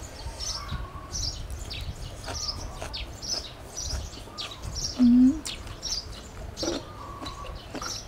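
Small birds chirping over and over, short high calls every half second or so. About five seconds in comes a brief low voiced sound, briefly the loudest thing.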